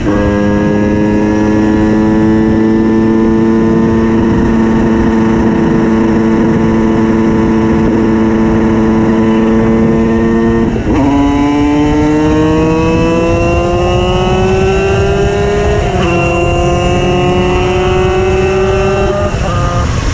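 Tuned 90 cc reed-valve two-stroke engine of a Simson S51 moped pulling under load, its pitch climbing steadily and dropping sharply at each gear change, at the start and about eleven and sixteen seconds in. Near the end the throttle eases off.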